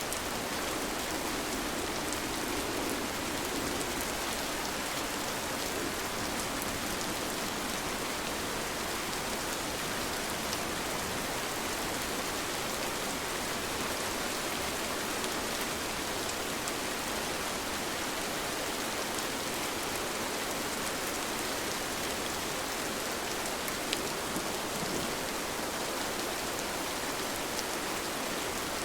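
Steady rain falling: an even hiss with scattered ticks of single drops, one sharper drop tick about 24 seconds in.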